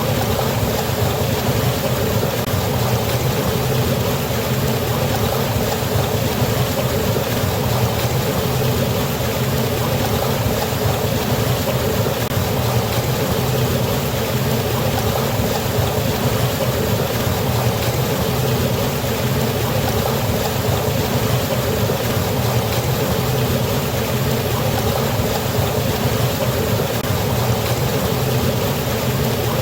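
Rushing water of a waterfall, a steady unbroken rush with a strong low rumble.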